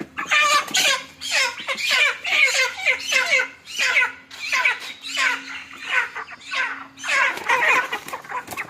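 Live chickens squawking loudly: a rapid run of harsh calls falling in pitch, about two a second, with a longer, drawn-out squawk near the end.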